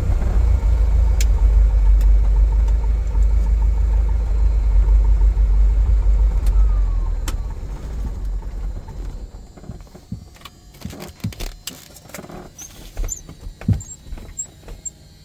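Cessna 177 Cardinal's piston engine running with a steady low drone, then shut down, winding down and dying out between about seven and nine seconds in. Scattered clicks and knocks follow.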